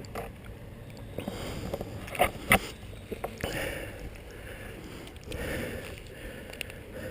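A tired rider breathing hard, with a hazy breath every couple of seconds, and sharp knocks from the bike, the loudest about two and a half seconds in.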